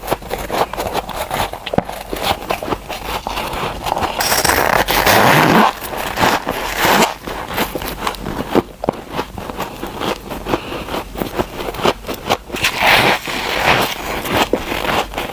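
Close-miked crunching and crackling of freezer frost packed into snowballs being bitten and chewed: a dense run of small crackles with a few heavier crunches.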